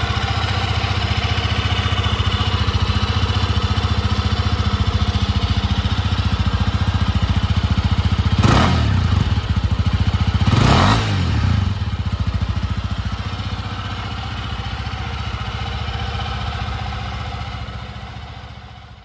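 Yamaha Serow 250's air-cooled single-cylinder engine idling with an even pulse. The throttle is blipped twice, about eight and a half and ten and a half seconds in, and it drops back to idle each time, then fades out at the end.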